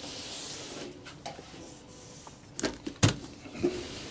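Hands taking apart a metal computer case: a soft rubbing hiss at first, then a few light clicks and knocks, with a firmer thump about three seconds in.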